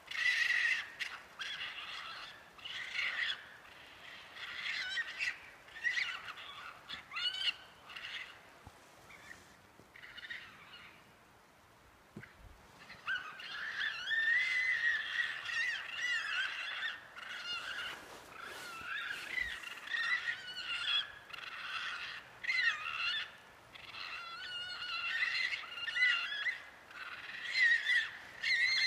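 A chorus of wild animals calling: many high, wavering, gliding cries and short yelps overlapping one another, sparse at first and then a dense, continuous chorus from about halfway in.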